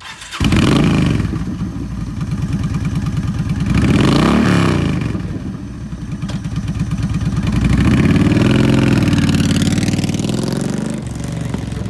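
Yamaha V Star 1300's fuel-injected V-twin running loud through an aftermarket Cobra exhaust. It comes in about half a second in, is revved briefly about four seconds in, then swells again around eight to nine seconds before settling back.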